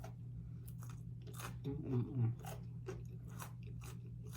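Close-up chewing of crunchy fried food, a string of sharp crunches, over a steady low hum.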